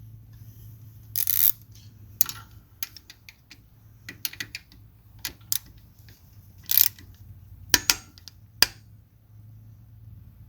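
Hand tools clicking and clinking against metal in irregular spells while bolts are snugged down on the tractor's aluminum case, with a few short scraping sounds and several sharp clicks.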